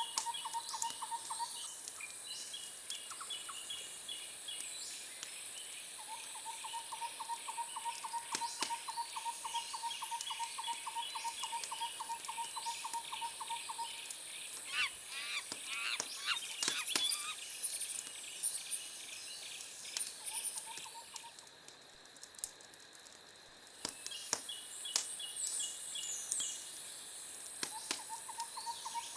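Night-time nature soundscape. A long run of rapid, evenly spaced toots repeats several times, over a steady high insect buzz. A burst of bird chirps comes near the middle, and a few sharp pops are scattered through it.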